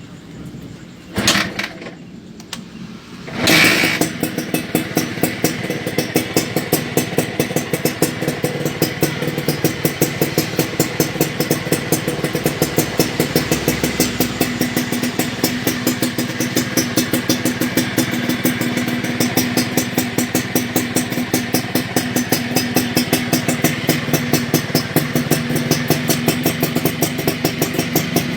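Suzuki Satria Hiu two-stroke motorcycle engine with a racing under-slung exhaust, starting: two short bursts, then it catches about three and a half seconds in. It then idles with a rapid, even popping beat from the exhaust.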